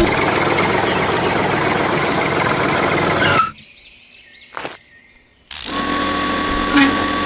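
Small electric motors of a homemade toy drilling rig running with a dense whirring noise, cutting off suddenly about three and a half seconds in. After a short quiet gap with one click, a motor starts again with a steady thin whine.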